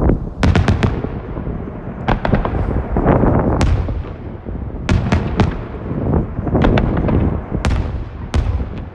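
Aerial fireworks in a dense finale barrage: booming shell bursts rumbling over one another, with clusters of sharp cracks every second or two.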